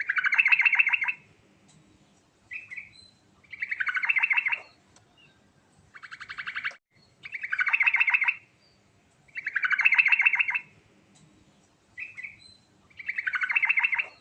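Yellow-vented bulbul singing in rolling phrases. Each is a rapid pulsed trill about a second long, repeated roughly every two seconds, with short single chirps in some of the gaps.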